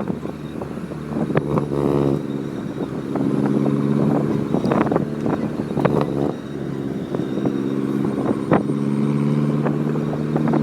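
Road vehicle's engine running at a steady drone while driving, with scattered knocks and rattles.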